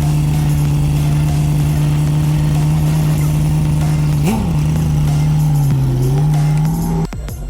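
Car engine idling steadily, with one quick blip of the throttle about four seconds in. The engine sound cuts off abruptly near the end.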